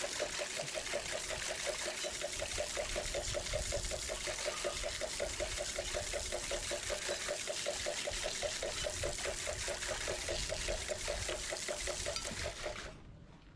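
A machine running steadily with a fast, even pulse, about five or six a second, over a hiss. It stops about a second before the end.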